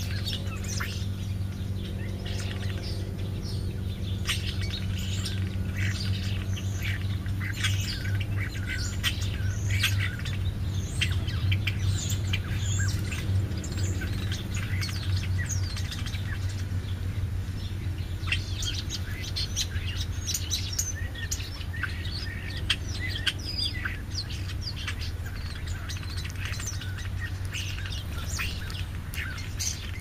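Many small birds chirping with short, high, quick calls, busiest in the middle, over a steady low hum.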